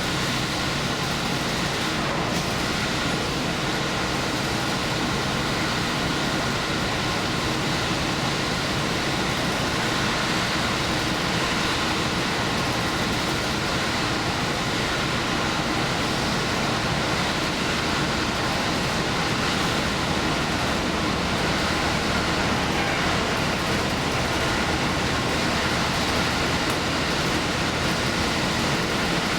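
Diesel express train running steadily along the line: an even rumble of engine and wheels on rail with a faint steady hum, unchanging throughout.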